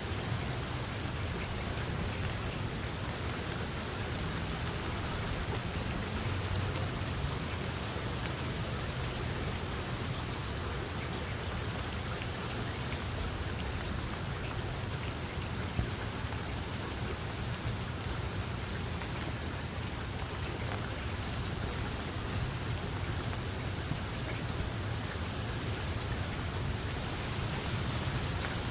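Steady rain falling, an even hiss of raindrops with a constant low rumble underneath.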